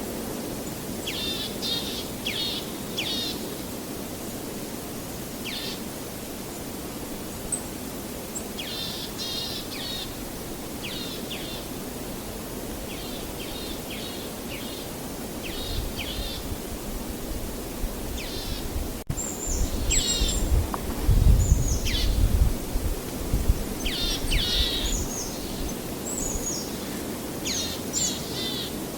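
Small songbirds chirping, in quick series of short, high, falling notes that come again and again, over a steady low rushing background. About two-thirds of the way through, a low rumble swells and makes the loudest stretch.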